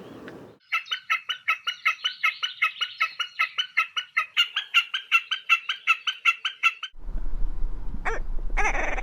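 A bird calling a rapid, even series of repeated ringing notes, about six a second, for some six seconds, then stopping abruptly. A different recording follows, with a low hum under it and a couple of loud calls near the end.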